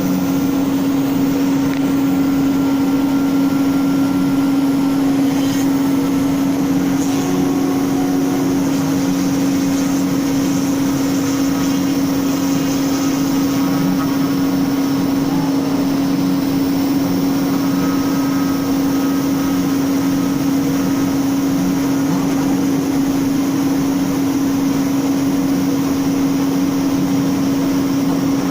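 CNC router spindle running at a steady speed while its bit cuts wood: a constant hum with a dense cutting noise over it.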